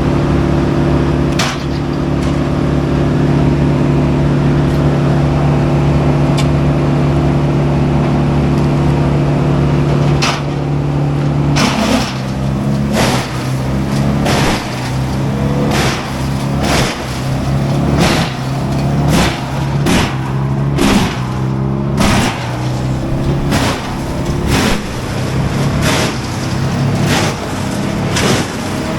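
Heavy diesel machinery running steadily, then, from about twelve seconds in, a regular series of sharp knocks about once a second while the engine note wavers under load.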